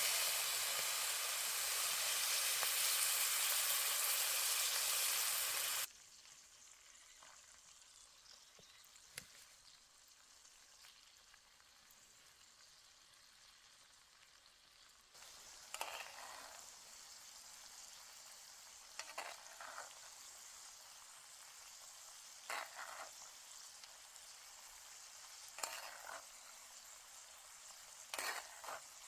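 Food sizzling loudly in a hot cast iron skillet over a campfire, a steady hiss that cuts off suddenly about six seconds in. After a quiet stretch, a fainter sizzle returns, broken by a short sound about every three seconds.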